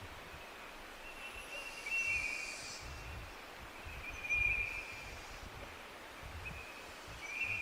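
Forest ambience: a steady hiss with a bird calling in short high phrases three times, the calls being the loudest sounds. There are low rumbles underneath, like wind on the microphone.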